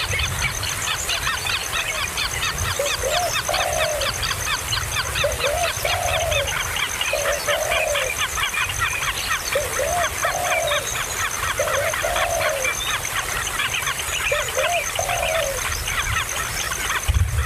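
Nestling birds begging with dense, rapid, high chirping, while a lower two-note call repeats every two or three seconds.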